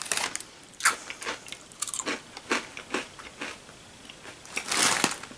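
A person chewing crunchy French Toast Crunch cereal, giving irregular crisp crunches, the loudest cluster near the end.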